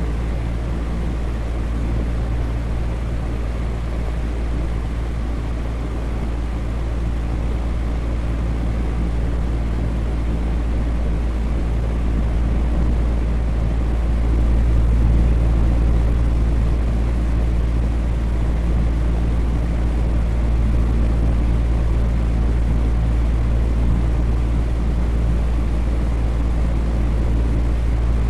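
Electric fan running steadily: an even, low, rushing drone with a faint motor hum under it.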